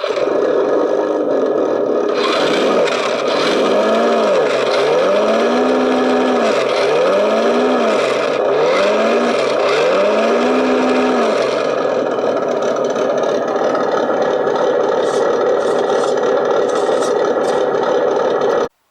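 Simulated diesel truck engine sound from an RC truck's throttle-linked sound unit, running over a steady rattle. It revs up and back down five times in the first half, then holds steady, and cuts off suddenly near the end.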